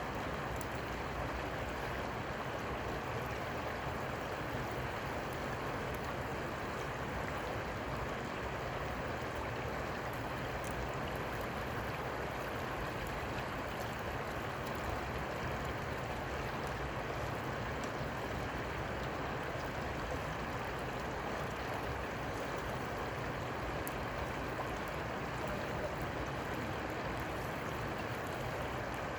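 Steady rush of flowing river water, unchanging, with a few faint ticks.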